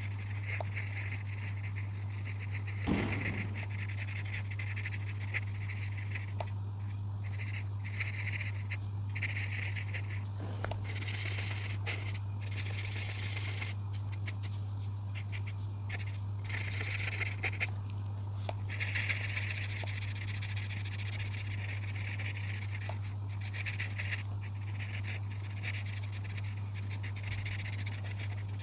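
Coloring tool rubbing over paper in repeated strokes, a scratchy squeak that starts and stops every second or so, over a steady low hum.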